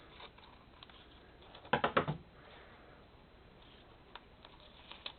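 Light clicks and taps from handling paper cutouts on a tabletop, with a quick run of four or five sharp clicks about two seconds in and a few single ticks later.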